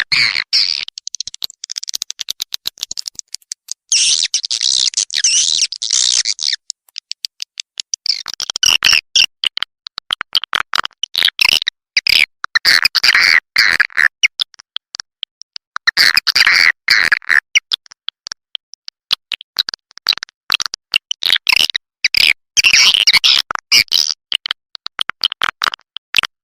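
Edible-nest swiftlet lure-call recording: rapid trains of dry clicks broken every few seconds by bursts of high, twittering chirps, the kind of looped call played to draw swiftlets into a nest house.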